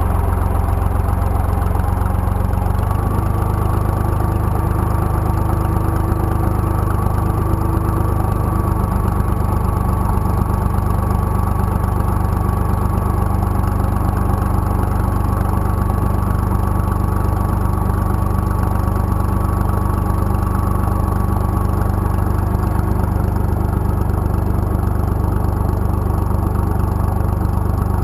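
IMT 2050 tractor's diesel engine running steadily. About three seconds in the engine note shifts and a thin, higher whine joins it.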